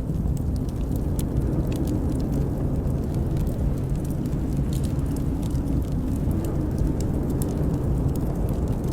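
Wood fire crackling, with scattered sharp irregular pops over a steady low rumble of howling blizzard wind.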